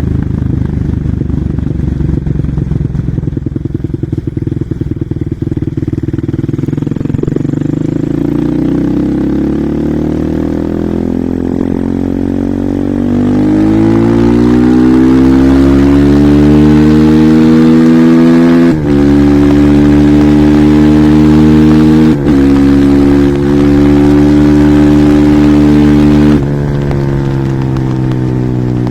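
Husqvarna SMR 450 supermoto's single-cylinder four-stroke engine under way. It runs at low revs with an uneven note, then accelerates hard with a steadily rising pitch. Two quick dips mark gear changes, and near the end the note drops suddenly as the throttle is shut.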